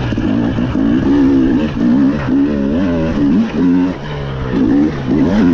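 Rally car engine revving hard, its pitch rising and falling again and again as the driver accelerates, lifts and changes gear.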